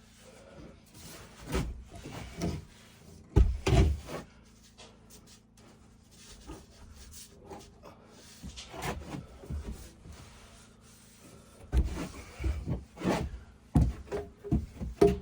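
Irregular wooden knocks and thuds from boards and tools being handled during carpentry. The knocks come closer together and louder near the end.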